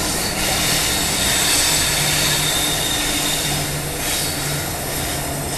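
Passenger train running, heard from aboard: a loud, steady rush of wheels on rail and air with a faint steady hum underneath.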